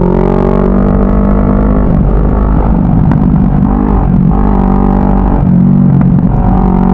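CFMoto 400NK motorcycle's parallel-twin engine running under way, its pitch stepping up and down a few times as the revs change.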